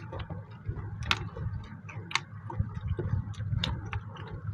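Two people eating rice and mutton curry by hand: irregular wet clicks of chewing and mouth smacking, with the loudest about one, two and three and a half seconds in.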